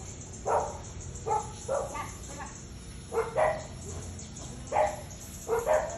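A dog barking repeatedly, about nine short barks with uneven gaps, some coming in quick pairs.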